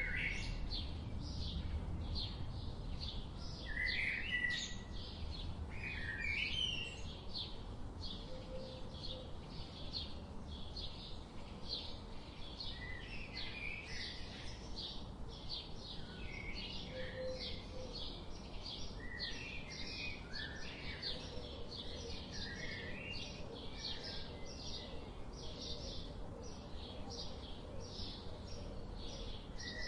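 Several songbirds chirping and singing: a steady run of short high chirps repeating about twice a second, with scattered lower warbled phrases from other birds, over a low background rumble.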